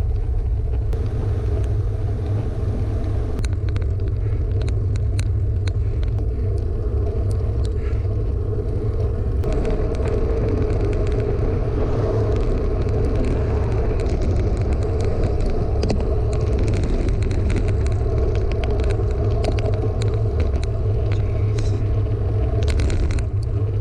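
Bicycle riding on a road, heard through an action camera's microphone: steady low wind rumble on the mic with tyre noise, and many small ticks and rattles.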